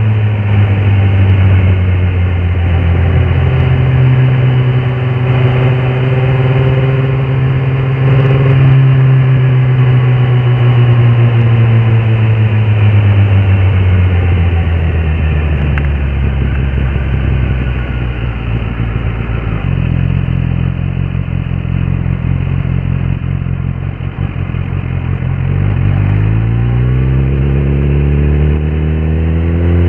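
Kawasaki ZX-10R SE inline-four engine running under way. Its pitch eases down through the middle as the bike slows, steps suddenly about two-thirds through, then climbs steeply near the end as it accelerates again.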